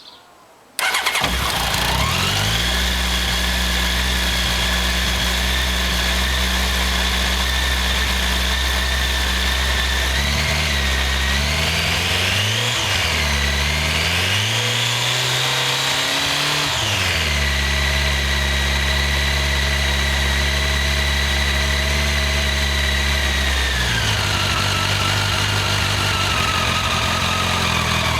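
Honda CBR1100XX Blackbird's inline-four engine starting about a second in and idling, running on its freshly fitted cam chain tensioner. The revs rise and fall a few times midway, and the idle steps down to a lower speed near the end.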